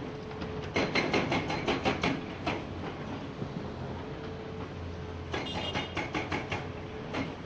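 Hydraulic excavator's diesel engine running steadily, with two spells of rapid, sharp clattering knocks, the first about a second in and the second past the middle, each lasting about two seconds.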